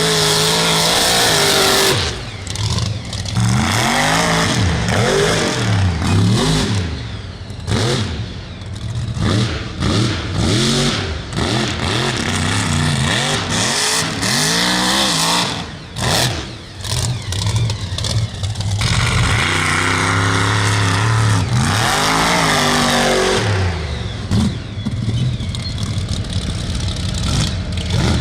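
Alcohol-fuelled race truck engine revved hard, its pitch climbing and falling again and again.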